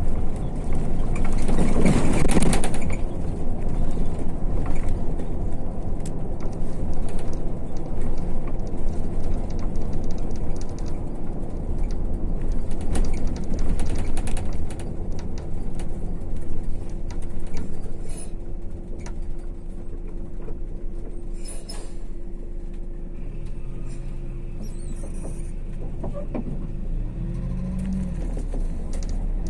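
A MAZ-152 coach under way, heard from inside: a steady engine and road rumble, with a loud rushing burst about two seconds in. The engine note rises near the end.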